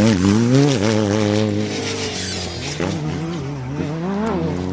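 Off-road race vehicle's engine running hard, its pitch rising and falling repeatedly as the throttle is worked.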